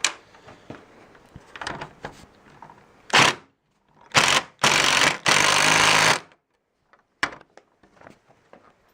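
Impact driver running in four short bursts, the last about a second long, hammering a fastener home until it is tight.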